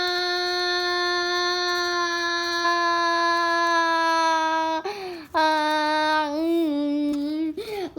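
A child's voice screaming one long, steady, high note. It breaks off about five seconds in and carries on as a wavering wail, with another brief break near the end.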